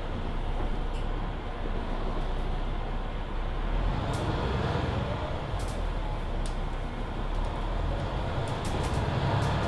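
Interior running noise of a 2021 Mercedes-Benz Citaro C2 hybrid city bus under way: a steady rumble of engine and drivetrain with road noise. A faint whine glides in pitch about four to five seconds in, and there are small scattered rattles.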